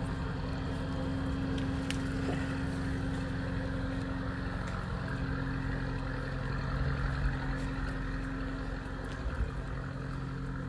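An engine running steadily at a constant low hum.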